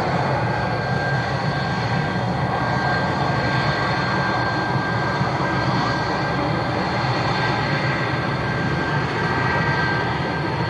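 Aircraft engines running steadily at an airport, a broad rush of noise with a thin, high steady whine over it.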